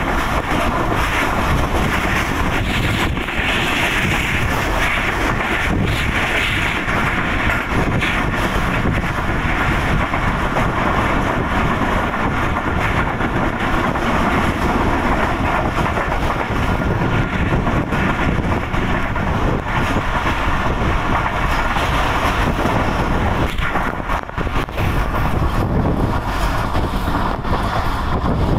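Passenger train running at speed, heard from an open coach window: a steady rush of wind and the rumble of wheels on the rails.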